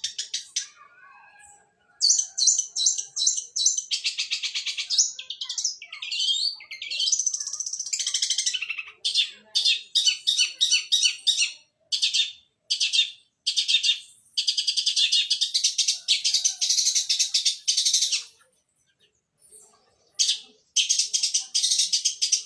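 Long-tailed shrike (cendet) singing in fast, rattling chatter runs of rapid repeated notes mimicking Eurasian tree sparrow calls, in its fighting-song style, broken by short pauses and a longer one near the end.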